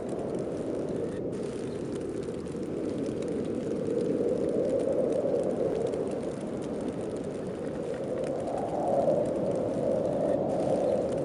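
Snowstorm wind blowing steadily in a low rushing tone, swelling in gusts about four seconds in and again, more strongly, near the end.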